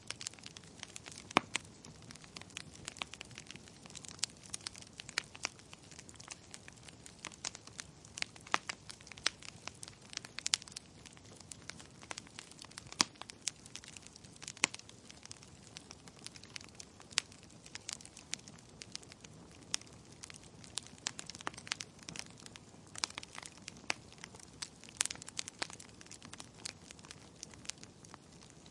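Wood fire burning in a fireplace: irregular sharp crackles and pops of the logs, scattered unevenly over a soft steady hiss of the flames.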